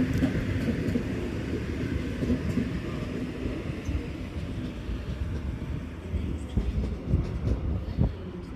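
Sydney Trains Waratah (A set) electric passenger train running through the station without stopping: a steady rumble of wheels on rail with scattered clacks over the rail joints, slowly fading.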